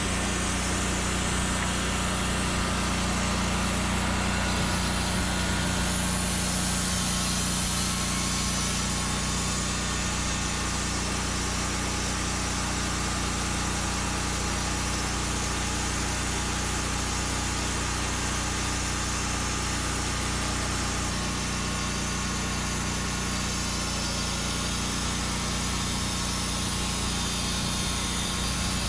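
Engine of a Norwood Lumbermate Mark IV portable bandsaw mill running steadily, its pitch shifting slightly about two-thirds of the way through.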